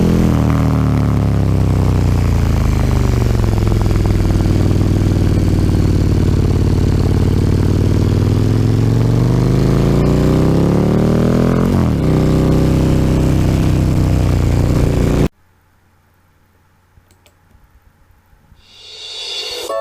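KTM 1290 Super Duke R's V-twin with an Akrapovic slip-on exhaust running under way: the revs fall, hold steady, then climb again, with a brief break about twelve seconds in. The engine sound cuts off abruptly about three quarters of the way through, leaving a quiet gap before ukulele music fades in near the end.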